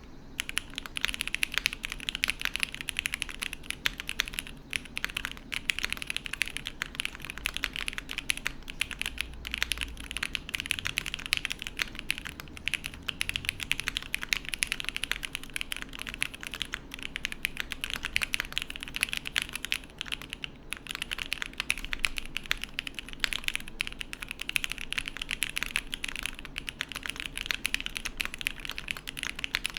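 Continuous fast typing on a gasket-mounted mechanical keyboard with lubed SP Meteor White linear switches on an unflexcut aluminium plate and GMK keycaps: a dense stream of keystroke clacks.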